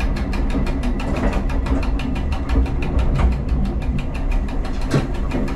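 Diesel railcar running along the track, its engine a steady low drone with a fast, even pulsing. A single sharp knock comes near the end as the wheels run over points.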